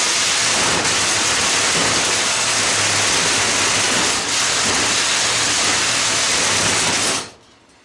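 A power tool blade cutting through the metal shaft of a fan: a loud, steady grinding noise that stops abruptly about seven seconds in as the shaft is cut through.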